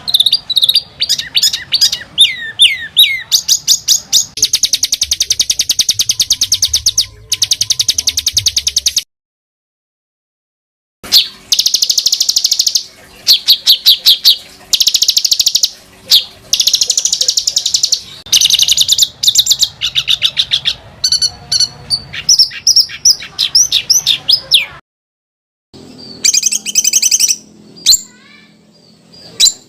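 Songbird song edited for a masteran training track: fast, tight trills and rapid strings of sharp, harsh notes, high-pitched and loud. It breaks off twice in clean cuts to silence, about nine seconds in and again near the end.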